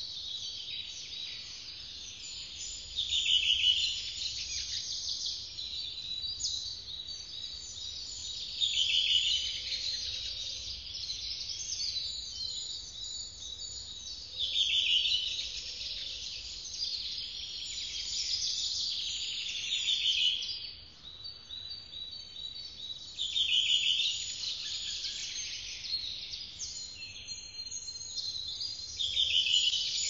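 Woodland birdsong: one bird's song phrase, about a second long, repeats five times a few seconds apart over a steady, high-pitched chorus of chirping from other birds or insects.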